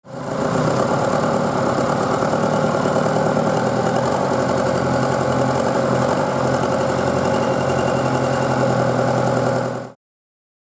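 Volkswagen 1.9 TDI (BKC) four-cylinder diesel engine idling steadily. It cuts off suddenly near the end.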